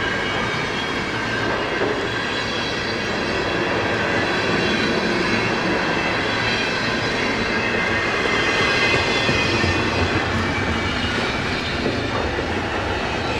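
Double-stack intermodal well cars of a slow freight train rolling past, a steady rumble of steel wheels on rail. Thin high squealing tones from the wheels ride over the rumble, with a few light clicks near the end.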